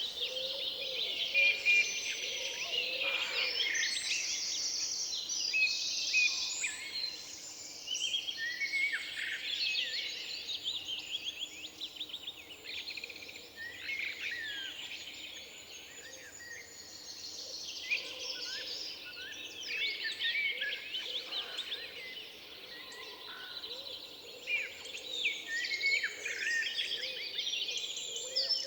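Several songbirds singing at once in a forest, a dense, continuous chorus of overlapping chirps, trills and quick whistled phrases.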